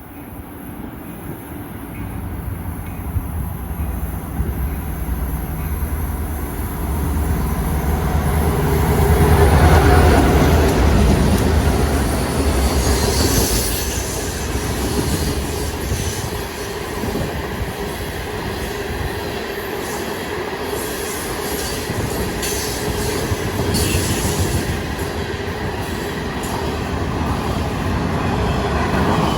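A freight train passing. Diesel locomotive engines grow louder to a peak about ten seconds in, then the freight cars roll by with steady wheel noise and brief wheel squeals.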